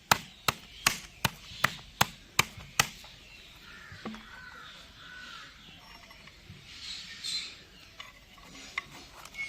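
A wooden stick beating pieces of chital fish, eight sharp strikes in quick succession at about two and a half a second, stopping about three seconds in. The fish is being pounded so that its flesh comes loose from the skin and bones for making muitha.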